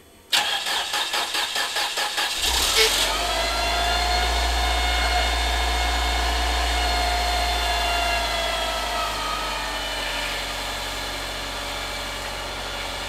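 Cold start of a 1989 Chrysler Daytona's 2.5-litre four-cylinder: the starter cranks it for about two seconds with a quick, even pulsing, the engine catches with a short rise in revs, then settles into a steady fast idle that eases down somewhat near the end.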